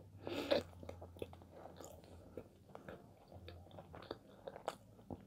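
Close-miked chewing of a dense chocolate brownie: a run of small, quiet mouth clicks and smacks, with a louder mouth noise about half a second in.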